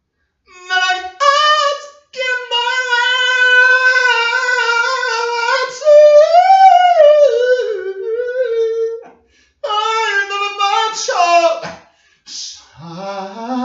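A single voice singing unaccompanied in long, high held notes, in phrases broken by short pauses; the pitch climbs to its highest a little past the middle.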